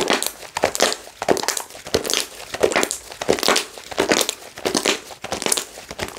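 Slime being squeezed and kneaded by hand: repeated squishing presses, about two or three a second, with the air in it crackling and popping.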